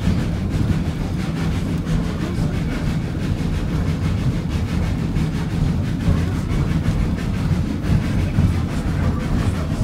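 Narrow-gauge steam train under way up a steep grade, heard from aboard: a steady low rumble of the moving cars and the working 1926 Baldwin 2-8-0 locomotive.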